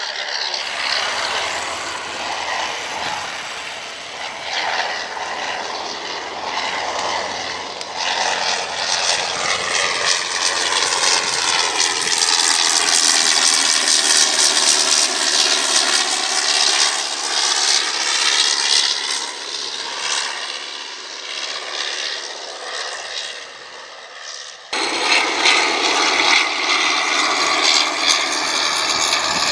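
A display aircraft flying past, its engine noise swelling to a peak and easing off, with abrupt jumps in the sound about a third of the way in and near the end.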